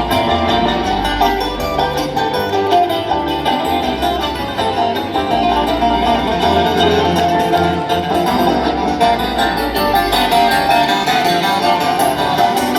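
Bluegrass string band playing an instrumental jam: fast picked acoustic guitar and banjo with fiddle over a steady bass line, recorded live.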